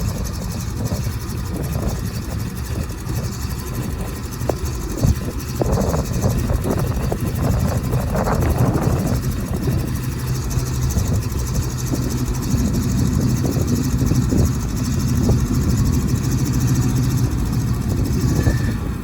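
1979 International 1723 truck's engine idling steadily, with a few short knocks in the first half.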